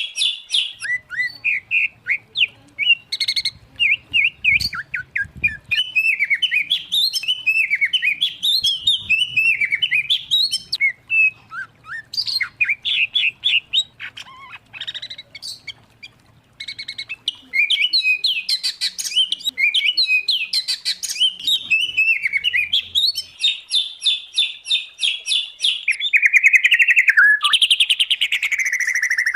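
Songbirds singing from a mixed recording of white-rumped shama, oriental magpie-robin and greater green leafbird: fast, varied whistled phrases and rapid repeated note series. There is a short lull about halfway, and a long falling run of notes near the end.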